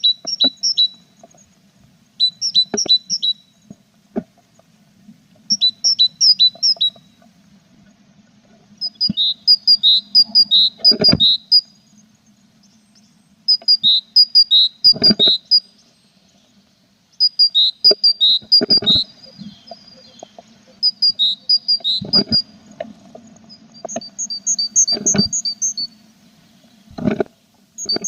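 Tit nestlings in a nest box giving groups of rapid, high chirps every few seconds, the calls of chicks begging. Occasional soft knocks sound as the birds move against the box, over a faint steady hum.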